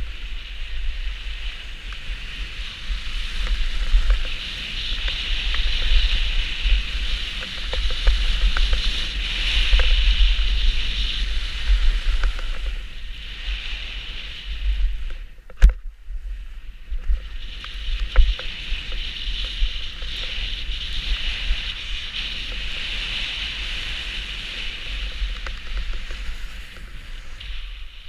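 Steady hiss of a ride sliding down packed snow, swelling and easing over two long runs, with wind buffeting the microphone underneath. A single sharp knock falls about halfway through.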